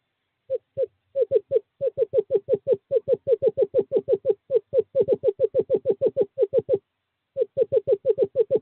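Male screech owl calling, a long steady series of short hooting notes at about five a second, with a brief pause before the notes resume near the end: a courtship call to a female.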